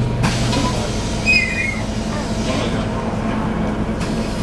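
Scania bus's 9-litre gas engine and drivetrain running steadily, heard from inside the passenger saloon. A brief high squeak comes about a second and a half in.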